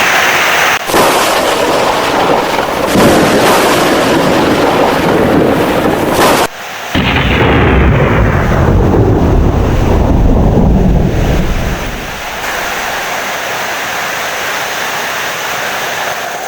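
Heavy rain and loud thunder. The sound jumps abruptly in level a few times, then a long low rumble of thunder dies away about twelve seconds in, leaving a quieter, steady rain hiss.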